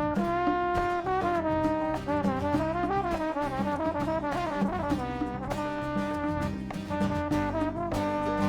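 Trombone playing a melodic solo line over a band with bass and a steady percussion beat: held notes, then sliding, wavering bends through the middle, settling onto held notes again.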